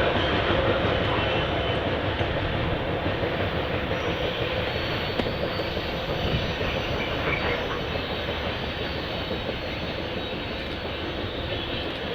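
Railroad cars of a passing train rolling along the track, a steady rumble and rattle that slowly fades.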